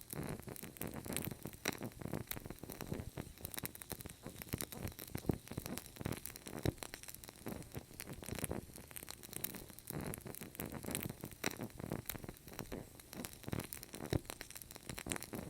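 Fire burning with continuous irregular crackling: dense small pops and snaps, a few louder ones standing out, over a soft low rush of flame.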